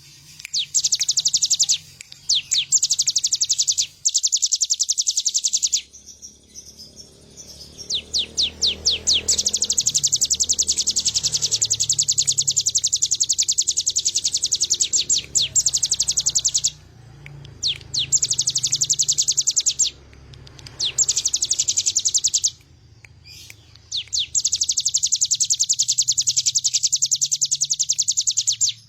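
A ciblek gunung (mountain prinia) singing long, very rapid high-pitched trills in bursts of a few seconds with short pauses, some starting as separate notes that speed up into a solid run.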